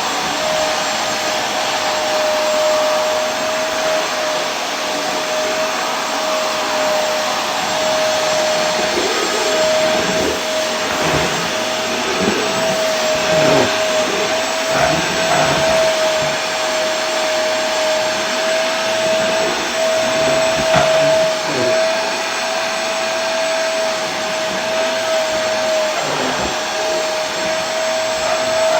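Vacuum cleaner running steadily: a constant rush of air with a steady motor tone held at one pitch.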